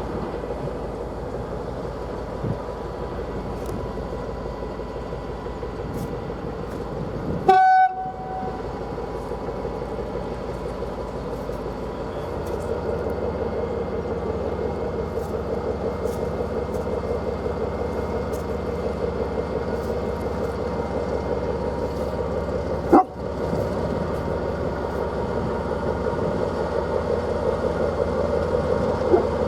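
SN61 diesel railcar running steadily, with one short horn blast about eight seconds in and a sharp click near the end.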